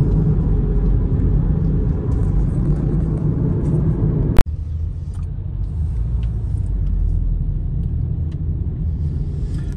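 Car driving along a road: steady low engine and road rumble heard from inside the cabin. A single loud, sharp click cuts across it about four and a half seconds in.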